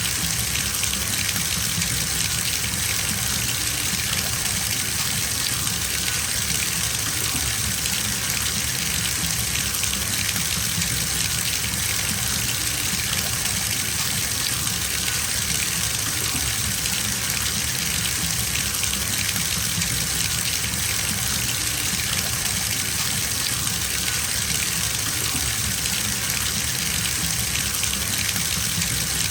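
Bathtub filling: water gushing steadily from the tap into the tub, an even, unbroken splashing hiss with a low rumble beneath.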